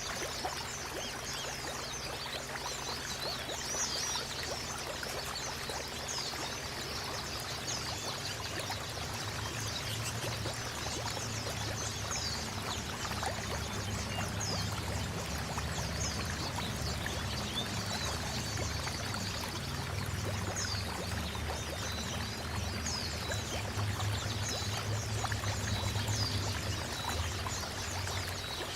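Water pouring and running steadily, with many short, high bird chirps scattered over it.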